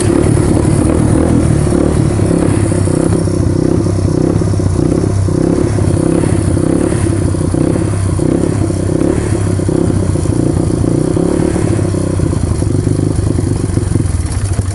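1995 Honda XR200R's single-cylinder four-stroke engine running loud and fairly steady at raised revs, held up on the throttle because the cold engine, just off choke, won't hold an idle.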